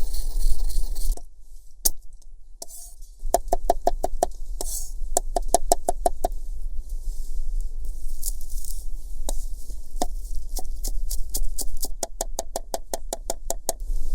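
A knife chopping quickly on a cutting board, about six even strokes a second in runs with short pauses, typical of mincing herbs for chimichurri. A single tap comes about two seconds in, before the chopping starts.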